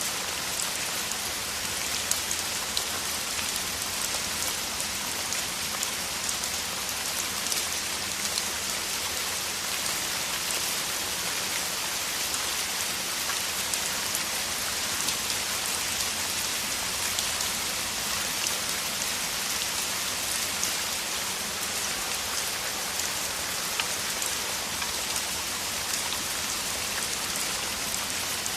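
Heavy rain falling steadily: a dense, even hiss with many single drops ticking through it.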